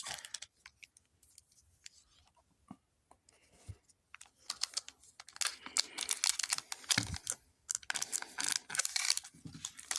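Foil wrapper of a Pokémon booster pack being worked and torn open: a dense run of crinkles and small rips starting about halfway in, after a few faint clicks.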